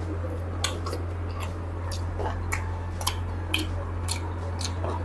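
Close-miked chewing and biting of a cooked chicken drumstick: irregular wet clicks and smacks of the mouth, about two or three a second, over a steady low hum.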